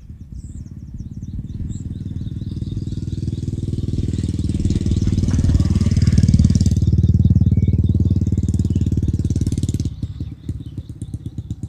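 A motor engine running with a low, rapid pulsing. It grows louder, with its pitch shifting, and then cuts off abruptly about ten seconds in.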